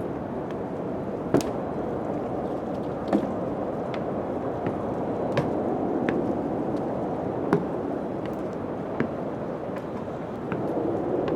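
Steady wind-like rushing noise in a haunted-house ambience, with sharp knocks and clicks at irregular intervals, about one every second or two.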